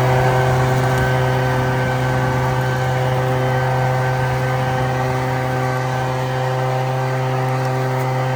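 Gas-powered leaf blower running at full throttle with a steady, even engine note, blowing out fire that has spread where it isn't wanted. The throttle is let off at the very end and the engine note drops away.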